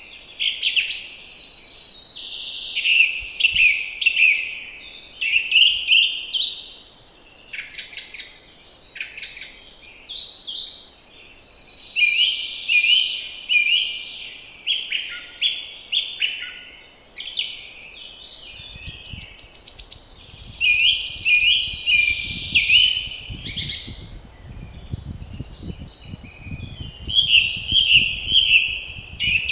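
Several songbirds singing in spring, with quick repeated chirping and trilled phrases overlapping one another. About two-thirds of the way through, a low rumble of wind comes in under the song.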